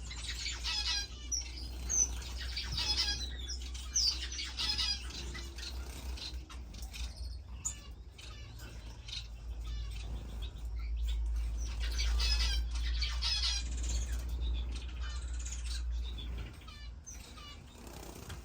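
A room of caged finches chirping busily, with wings fluttering, over a steady low hum.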